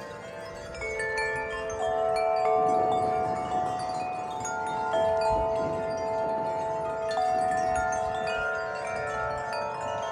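Several tuned metal-tube wind chimes ringing in gusty wind, many tones struck again and again and overlapping as they ring on, over a faint rumble of wind.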